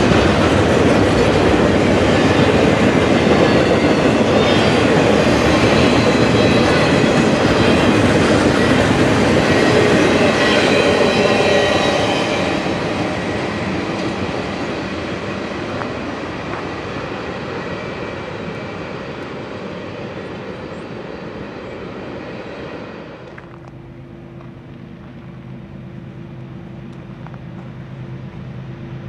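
CSX intermodal freight train of trailers on flatcars passing close by, loud and steady, then fading from about 12 seconds in as the last cars pull away. About 23 seconds in the sound drops suddenly to a quieter steady hum.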